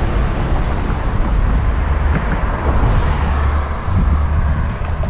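Steady wind rumble buffeting the microphone of a helmet-mounted GoPro on a moving bicycle, with a brief rise in hiss about three seconds in.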